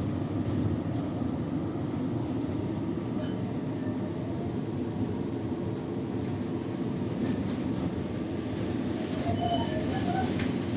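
Lisbon tram running on its rails, heard from on board: a steady rumble of wheels and running gear. A thin, high wheel squeal comes in briefly about halfway through and again for a couple of seconds after that.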